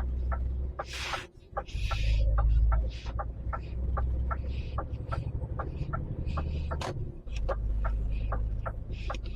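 Inside an HGV cab: the truck's diesel engine running low and varying with speed, with the turn indicator relay ticking steadily, several ticks a second. A couple of short hisses come about one and two seconds in.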